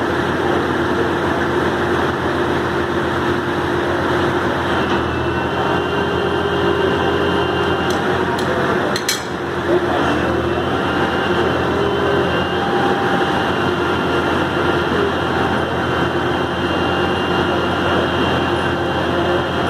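Heavy truck engine running steadily at a constant speed, with a brief sharp click about nine seconds in.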